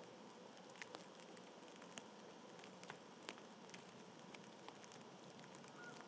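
Faint outdoor hiss with scattered light ticks and taps at irregular intervals.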